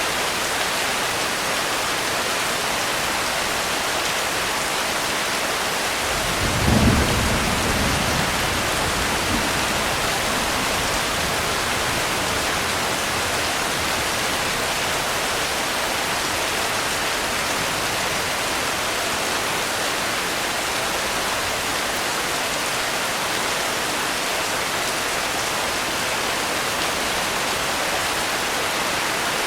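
Steady rain, with one low roll of thunder about six seconds in that fades away over a few seconds.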